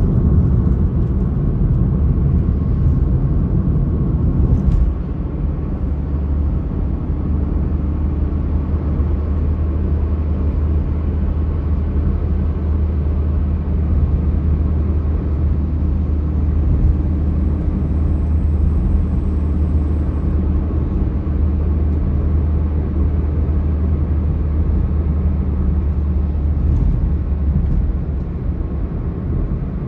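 A vehicle driving steadily, with a low, even engine and road drone. It gets a little quieter about five seconds in.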